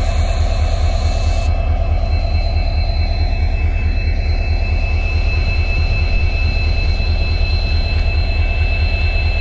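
A train's locomotive running steadily: a deep, even rumble with a steady high whine over it. It cuts off abruptly at the very end.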